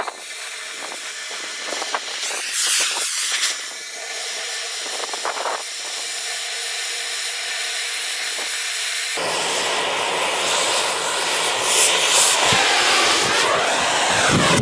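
Oxy-fuel cutting torch hissing steadily as it cuts through steel, with scattered pops and crackles early on. About nine seconds in the sound becomes louder and fuller.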